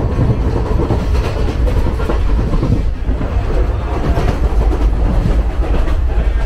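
Steady, loud rumble of a moving Indian Railways passenger coach heard from inside the carriage, with a few faint clacks of the wheels over rail joints.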